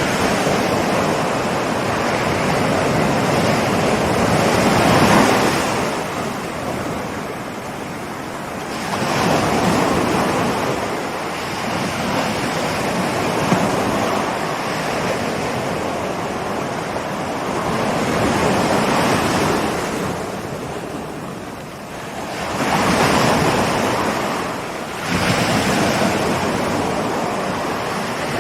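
Ocean waves rolling in and breaking: a continuous wash of surf that swells and eases every few seconds, loudest about five seconds in and again a little after twenty seconds.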